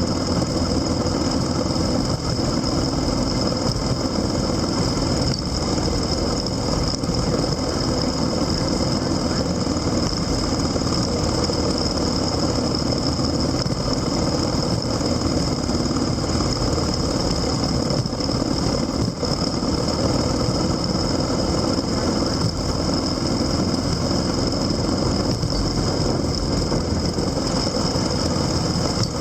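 A vehicle engine running steadily with constant noise, as heard on board during a ride, with a thin steady high-pitched tone over it.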